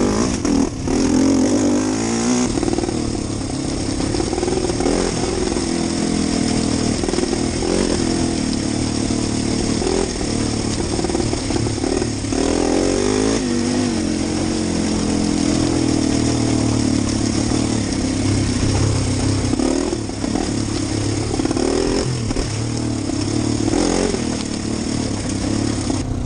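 Single-cylinder four-stroke engine of a 2012 Husqvarna TE250 enduro bike under way, its revs rising and falling again and again with the throttle.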